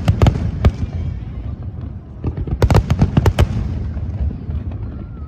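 Aerial fireworks bursting in two quick clusters of sharp cracks and bangs, one at the start and another about two and a half seconds in, with a low rumble from the blasts between them.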